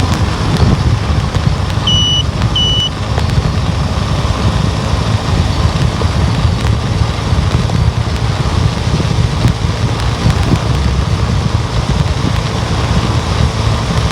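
Steady low rumble of a car driving on the road, engine and tyre noise. Two short high beeps sound about two seconds in, close together.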